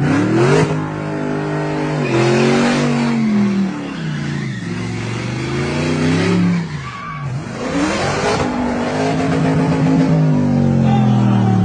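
Car engine revving, its pitch climbing and dropping several times over and over.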